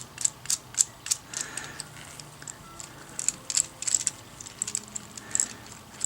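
Small sharp clicks of a 3D-printed plastic adjustable clamp as its joints are worked by hand, about three a second, with a short lull partway through.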